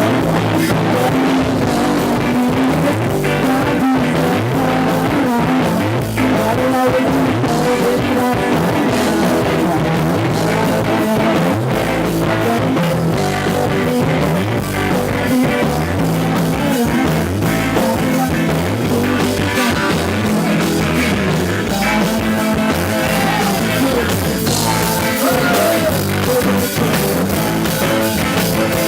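Rock music played by a band with guitar and drums.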